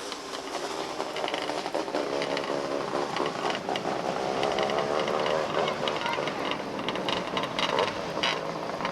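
Engines of several small dirt-track race cars running during a race, their pitch wavering up and down as they circle the track, with scattered short clicks.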